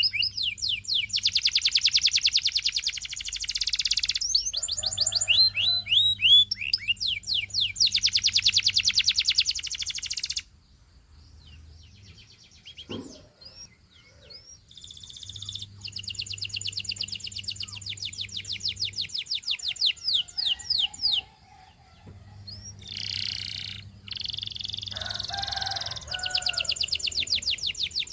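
Canary singing in long, high-pitched phrases of fast rolling trills and rapid repeated chirps, with a pause of a few seconds near the middle before the song starts again.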